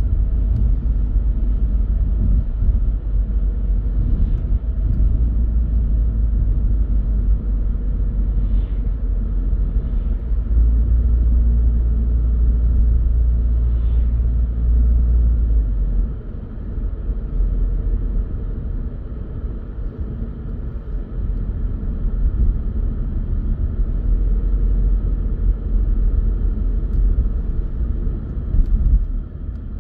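Car driving along a road: a steady low rumble of tyres and engine, easing off for a while about halfway through.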